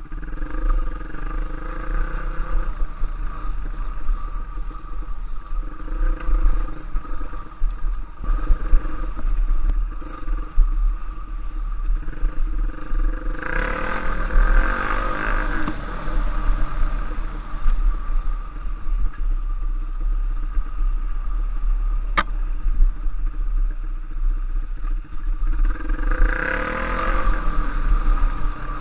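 Off-road trail motorcycle engine running continuously while riding a dirt trail, with two louder surges, one about halfway through and one near the end, and a single sharp click a little after that first surge.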